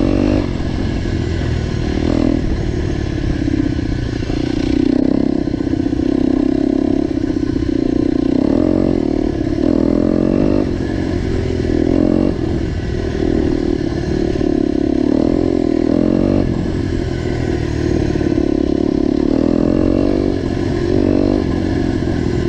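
Motorcycle with an aftermarket GPR exhaust riding along, its engine running loudly and steadily, the exhaust note swelling and easing every few seconds as the throttle changes.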